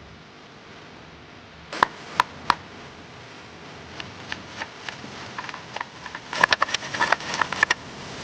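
Sharp wooden knocks: three loud ones about two seconds in, a few lighter taps, then a quick irregular cluster of knocks near the end, each with a short hollow ring.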